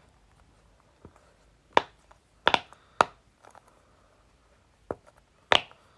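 Keychain-size silicone Pop-It fidget ball, its bubbles snapping back out with sharp, clicky pops, about half a dozen at uneven intervals.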